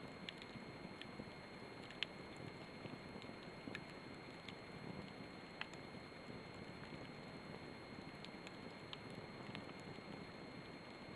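Campfire burning: a faint steady rush of the flames with sharp crackling pops of burning wood at irregular moments, roughly one every second or two.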